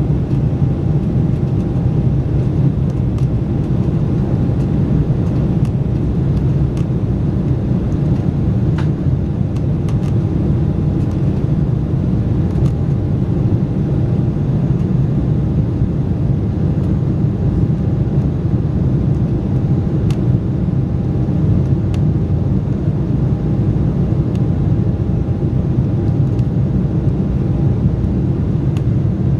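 Steady loud rumble of an Embraer 190's twin GE CF34-10E turbofan engines and rushing air heard from the cabin during takeoff and climb, with a faint steady whine above it.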